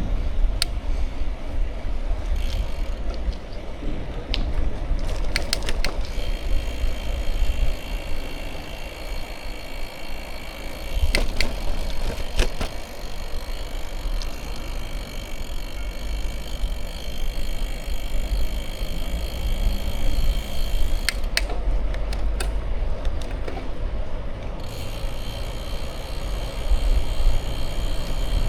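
Bicycle riding noise: a steady low rumble of wind on the microphone and tyres rolling, with scattered sharp clicks and rattles from the bike. A high steady whine comes in for long stretches.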